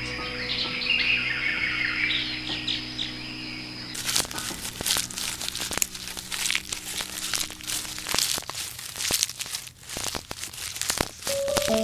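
Small birds chirping over soft music, then from about four seconds in a dense crackling, rustling noise of many sharp clicks. The music stops about eight seconds in and new music begins near the end.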